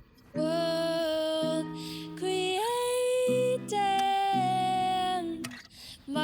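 A live song: a voice sings a few long, held notes over acoustic guitar chords, with short breaks between phrases.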